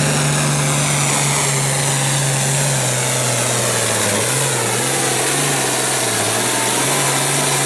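International Harvester 1466 farm tractor's turbocharged six-cylinder diesel running hard at full throttle while pulling the weight sled. The engine note is steady and dips slightly about three seconds in, then wavers as the load builds.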